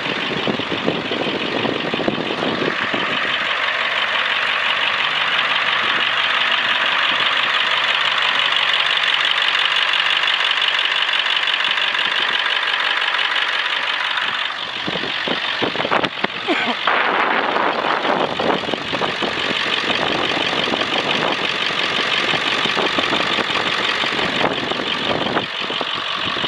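1998 International 4700 truck's diesel engine running steadily. A little past halfway there are a few seconds of clattering knocks.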